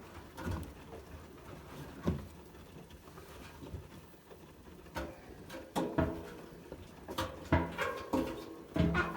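Privileg 804 washing machine giving a series of irregular thuds and clunks, some with a short metallic ring. They are sparse at first and come more often in the second half.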